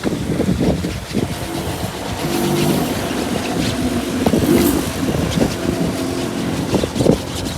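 A motor vehicle engine running steadily over low rumbling noise.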